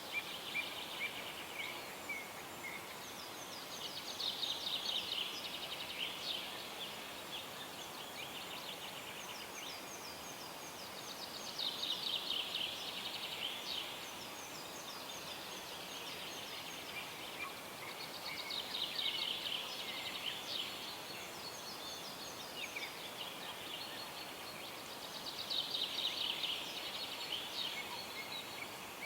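A songbird singing the same fast, trilled phrase four times, about every seven seconds, each lasting around two seconds, over a steady quiet hiss of the outdoor background.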